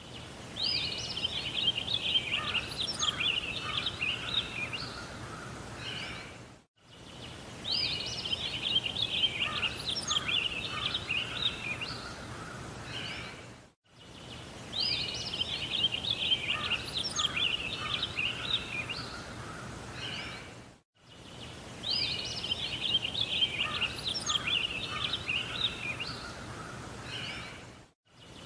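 Bird song: a phrase of quick chirps and warbles, opening with a rising note. The same phrase repeats four times, about every seven seconds, with a brief cut-out between repeats, as from a looped recording.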